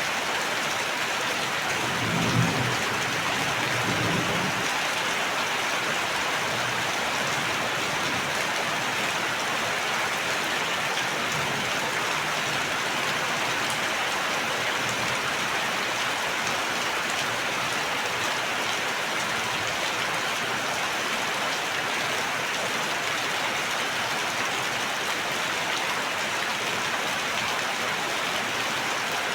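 Steady rain falling, an even hiss throughout, with a brief low rumble about two to four seconds in.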